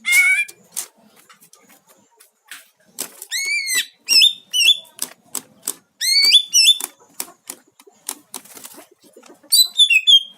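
Caged greater green leafbird (cucak ijo) giving short bursts of swooping whistled calls in its agitated state, at about three seconds, about six seconds and again near the end. Between the calls come many sharp clicks and knocks.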